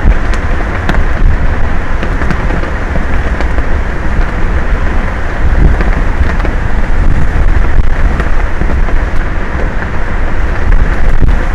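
Strong wind buffeting an outdoor microphone on an offshore tower: a loud, gusting rumble with a few faint clicks.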